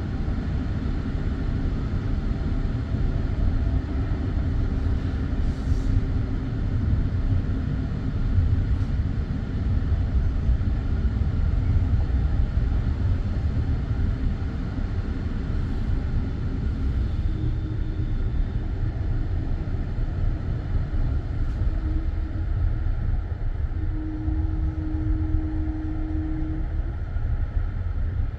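Passenger railway carriage running along the track, heard from inside: a steady low rumble of wheels on rails. A brief steady whine joins about three-quarters of the way through.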